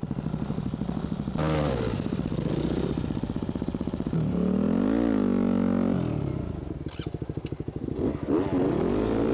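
Enduro dirt bike engine running at low revs with a pulsing putter, revved up and back down about four seconds in. Two sharp knocks come about seven seconds in.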